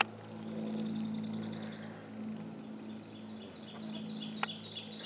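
Songbirds singing: a fast, even trill of high notes for a little under two seconds, then a run of about ten quick repeated notes, each sliding downward, near the end. A low steady hum lies under both.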